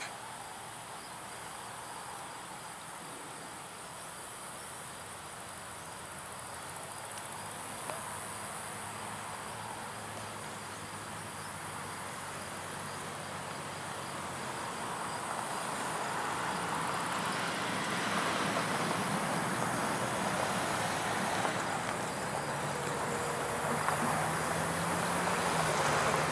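Insects buzzing steadily in the trees while an Amtrak GE Genesis diesel locomotive approaches, its engine and train noise growing steadily louder over the second half.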